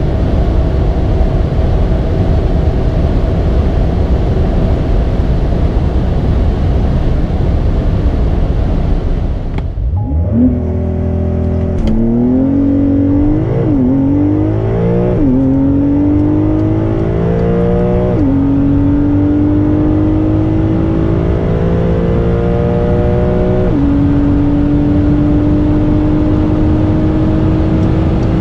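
Porsche 992 Carrera 2S twin-turbo flat-six engine at full throttle. A steady stretch of engine and road noise changes abruptly about ten seconds in to a hard acceleration. The revs climb and drop back with each quick upshift, five shifts in all, and each gear is held longer than the last.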